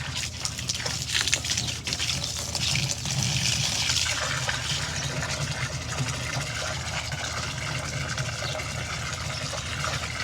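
Running water pouring and splashing steadily, with a stronger, hissier rush for the first four seconds or so.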